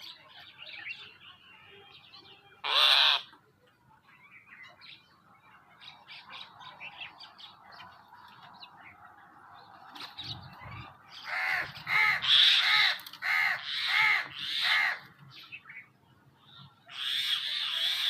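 Small birds chirping continually, with loud harsh calls cutting in: one about three seconds in, a run of about eight in a row past the middle, and another near the end.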